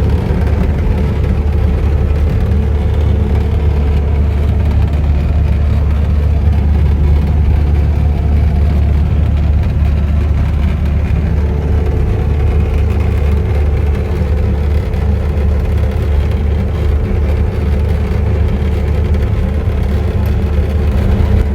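Vehicle engine running steadily: a constant low drone with a steady whine above it.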